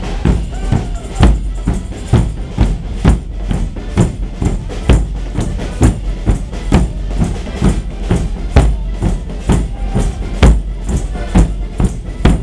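A group of Portuguese bombos (large bass drums) drumming together in a steady rhythm. There is a heavy stroke about once a second, with quicker strokes in between.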